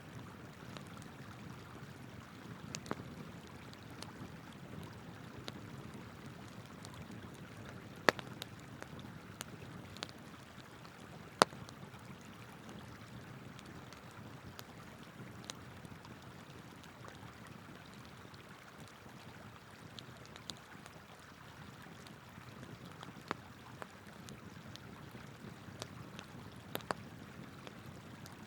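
Wood fire crackling with scattered sharp pops, the two loudest about eight and eleven seconds in, over the steady rush of flowing river water.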